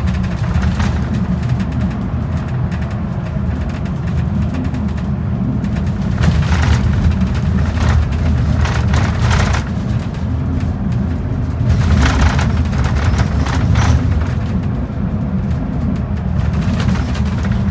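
Express bus on the move: a steady low engine and road rumble, with a few brief rushes of hiss over it.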